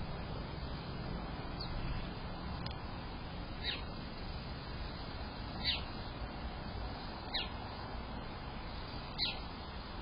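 A bird calling with short, sharp notes that fall in pitch, one every second or two, over a steady low hiss.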